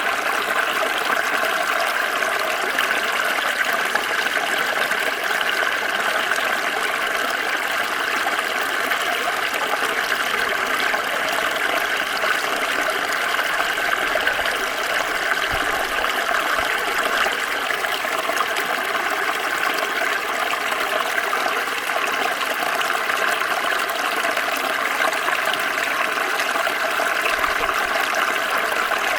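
Small stream flowing over stones, a steady, even rush and babble of water with no break.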